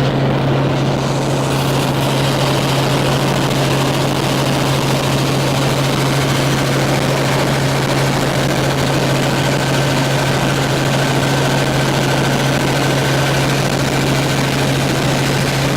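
Rotor aircraft running at a steady pitch: a constant low hum with a wash of rotor noise over it, and a faint higher whine joining about halfway through.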